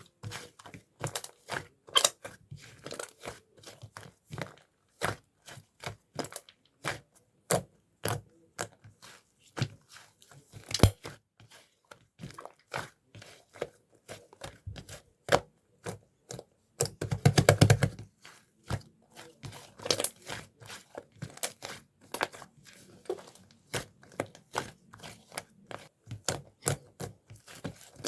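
Slime being squeezed, pressed and poked by hand, giving many short sticky clicks and pops at an irregular pace, with a denser squelching burst a little past halfway.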